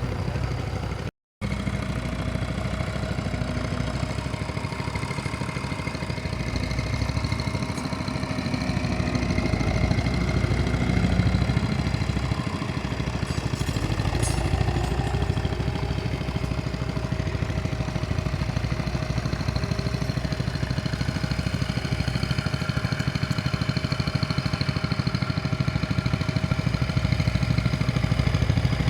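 Tractor engines running steadily under load while ploughing. The sound cuts out completely for a moment about a second in.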